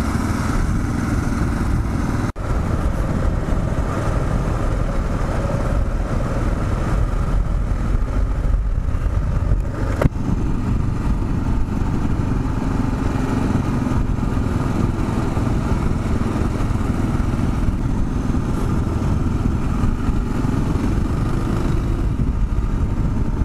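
Kawasaki KLR 650 single-cylinder four-stroke engine running steadily under way. There is a brief dip in the sound about two seconds in and a single sharp click near the ten-second mark.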